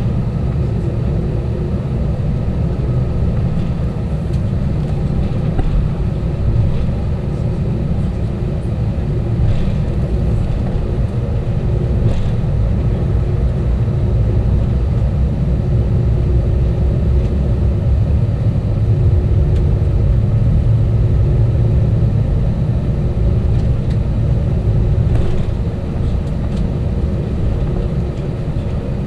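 Airbus A320 cabin noise: engine and airflow rumble heard from inside the passenger cabin. It is steady and deep, with a few faint steady tones over it.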